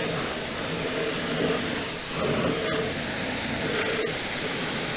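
Cold-water pressure washer spraying down an oily compact track loader: a steady hiss of spray that shifts slightly in tone as the jet moves over the metal.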